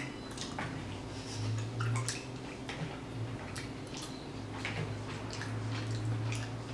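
Close-miked chewing and mouth sounds of people eating steak and potato salad: scattered soft wet smacks and small clicks, over a low hum that swells twice.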